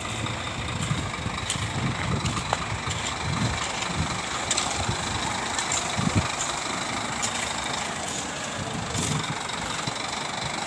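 Large diesel bus engine idling steadily, a low uneven rumble.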